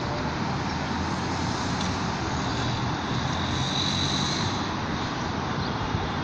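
Steady outdoor noise with a low rumble and hiss, unbroken and even in level, with a faint high whine about halfway through.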